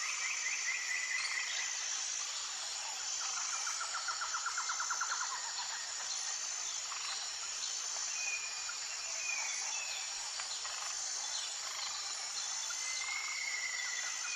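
Tropical forest ambience: a steady high-pitched insect chorus with a regular pulse, over which birds call. A fast trill of repeated notes comes a few seconds in, then short whistled notes and a longer whistle near the end.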